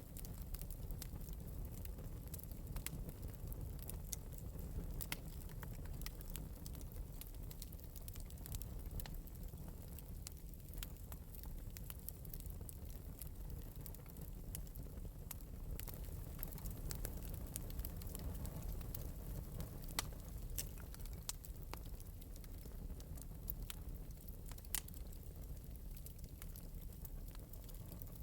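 Wood fire burning in an open metal fireplace, with a steady low rumble and a light, irregular crackle of small pops, a few louder pops now and then.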